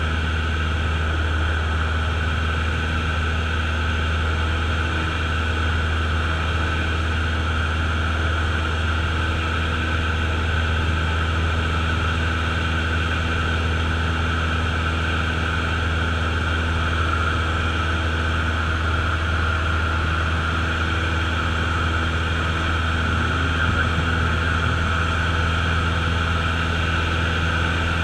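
A Cessna's single piston engine and propeller droning steadily, heard from inside the cockpit, with no change in power.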